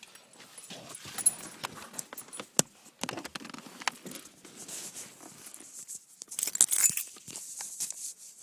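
Irregular clicks, rattles and rustling of something being handled, with louder stretches about a second in and again about six and a half seconds in; no engine cranking or running is heard.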